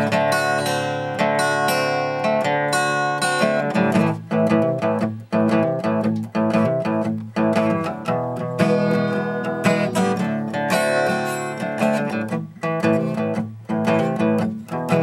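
Acoustic guitar strumming a blues accompaniment, with a steady pulse of strokes.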